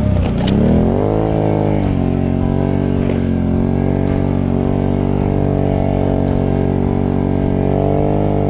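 Can-Am Outlander 650 ATV's V-twin engine revving up over the first couple of seconds, then held at high, steady revs under heavy load, pushing through deep snow. A short click sounds about half a second in.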